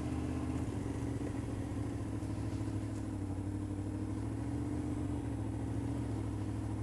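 Motorcycle engine running at a steady, even pitch, with light wind hiss.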